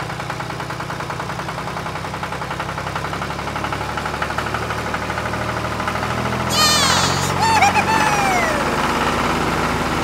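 A tractor engine chugging steadily with an even beat. From about two-thirds of the way in, a louder call glides up and then down in pitch for a couple of seconds.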